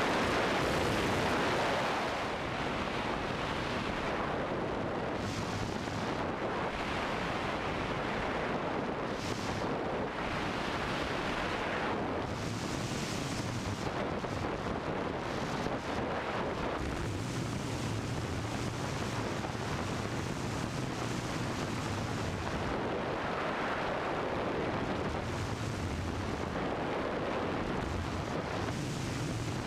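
Cessna 172's engine and propeller running steadily, with a low hum under loud rushing wind noise on the microphone.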